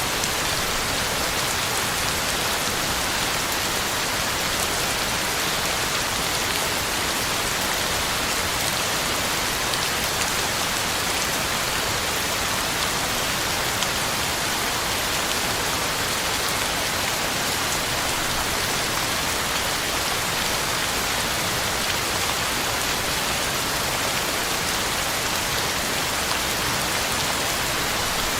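Heavy rain falling steadily on the ground and on leaves: a dense, even hiss of drops.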